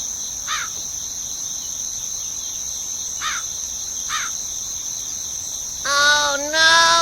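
A steady high insect drone, like cicadas or crickets, with a few short falling bird chirps, then two longer bird calls near the end.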